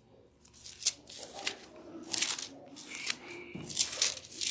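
Thin paper pages of a Bible being flipped over, about eight quick rustles in a row while searching for a passage.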